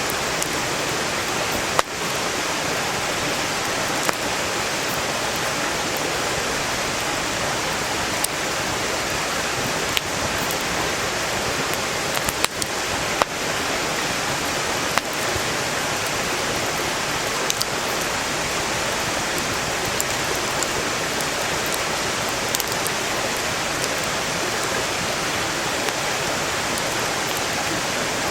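Steady rushing of a valley stream beside a wood campfire, with scattered sharp pops and cracks from the burning firewood every second or few.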